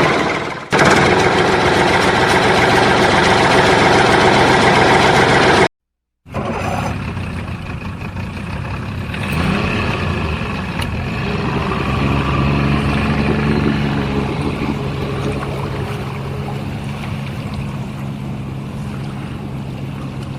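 Machinery running with a dense, loud engine-like noise, which cuts out abruptly about six seconds in and resumes quieter with a steady low hum.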